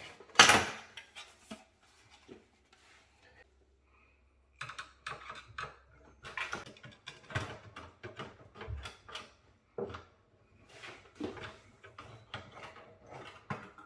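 Clicks, taps and knocks of plastic and metal parts being handled as an all-in-one water cooler is unfastened and lifted out of a desktop PC case. One sharp knock comes about half a second in, then a short lull, then a run of irregular small clicks.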